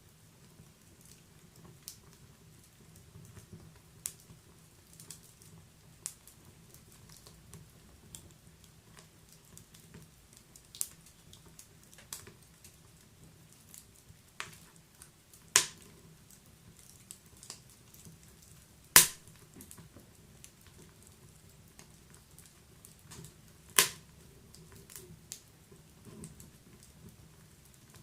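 Wood fire in a fireplace crackling: irregular small snaps and ticks, with a few much louder pops, over a faint low rumble of the flames.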